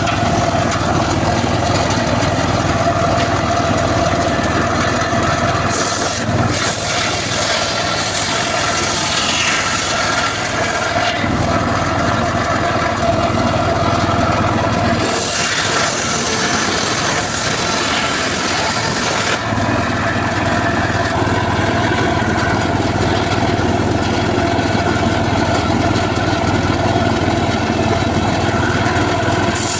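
Homemade circular sawmill running steadily with a motor drone and a steady whine. Twice the sound rises into a harsher, higher hiss as the blade cuts through mahogany: once from about six seconds in for several seconds, and again from about fifteen seconds in.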